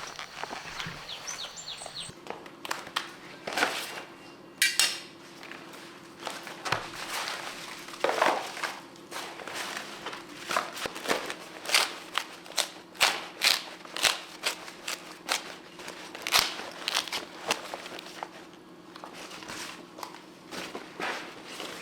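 Dry corn plants crunching and snapping in irregular sharp cracks, as stalks, leaves and husks are broken during harvesting.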